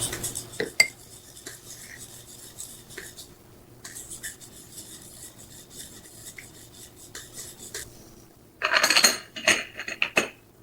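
Cups and cutlery being handled: scattered light clicks and clinks, with a louder rattle of quick strokes about nine seconds in.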